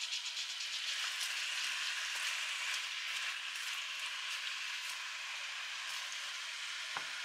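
Diced pork, beef and onion sizzling as they sauté in a Cuisinart pan, a steady hiss, with a few light strokes of a slotted spatula stirring them.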